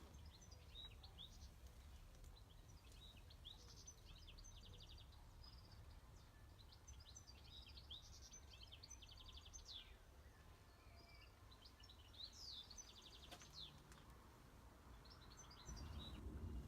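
Faint birdsong: many short chirps and trills from small birds, over a steady low rumble of background noise that grows louder near the end.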